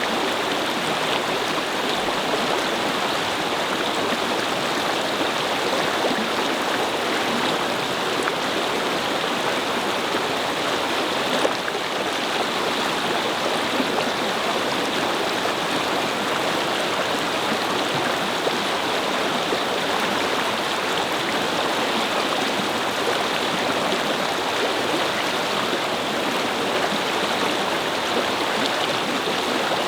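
A babbling brook: water flowing and splashing over stones in a steady, even rush.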